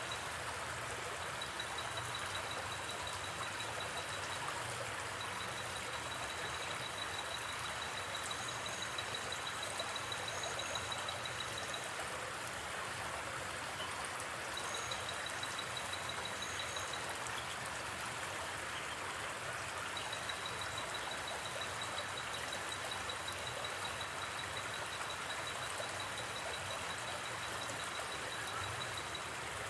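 River water flowing steadily. A high, rapidly pulsing insect trill comes and goes in long stretches over it, with a few short higher chirps in the middle.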